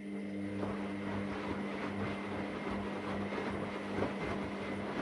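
AEG Lavamat Turbo washer-dryer running through its test cycle: a steady motor hum and whine over the rumble and churning of the turning drum.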